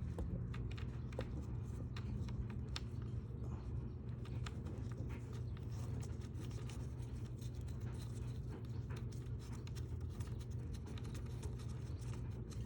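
Scattered small clicks and scratches of hands working parts of a Genie garage door opener, over a steady low hum.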